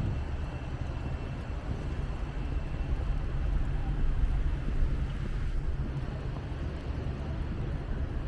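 Steady low outdoor rumble: wind buffeting the microphone mixed with city traffic.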